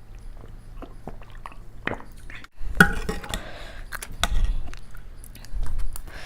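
Close-miked chewing and wet mouth sounds of someone eating, with small clicks. A brief break about two and a half seconds in, then the chewing grows louder.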